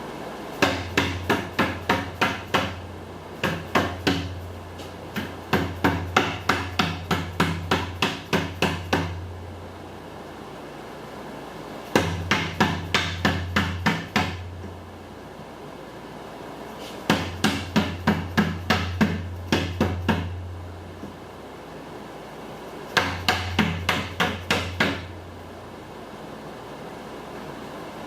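Hammer tapping on aluminum channel to bend it into a curved rain gutter: quick, even strikes about four a second, in six runs with short pauses between.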